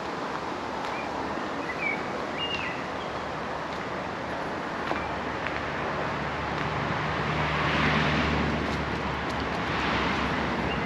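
A motor vehicle passing on the road: its tyre and engine noise swells to a peak about eight seconds in, with a second swell near the end. A bird gives a few short chirps in the first three seconds.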